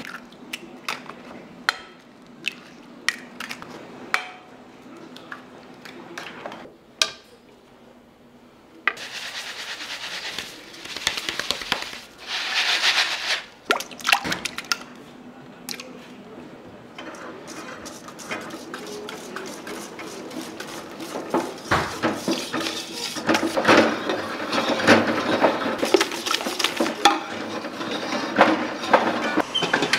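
Kitchen utensils and dishes clinking and tapping during pastry work, with a stretch of rushing noise about twelve seconds in and denser clatter over the last several seconds.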